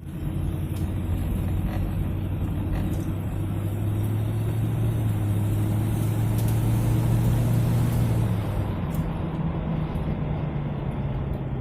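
1972 Ford Mustang's 302 V8 running steadily, its note changing about eight or nine seconds in.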